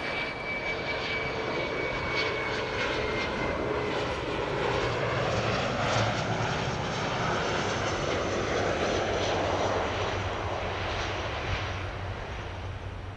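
Jet airliner on approach to land passing by: a high engine whine and a lower tone slide slowly down in pitch while the engine noise swells to its loudest midway and then fades near the end.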